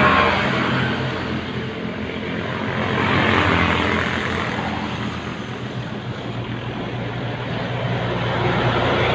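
Heavy diesel trucks running past on a highway: a steady low engine drone over tyre and road noise, swelling about three seconds in and again near the end.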